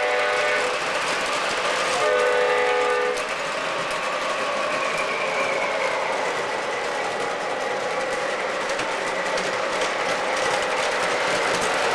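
Electronic horn of an O gauge model locomotive sounding twice: a blast that ends just after the start and another of about a second, about two seconds in. Under both is the steady running noise of model trains on the track.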